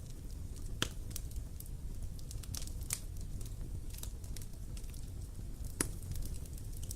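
Wood bonfire crackling: scattered sharp pops and snaps over a steady low rumble, with two louder pops, one about a second in and one near the end.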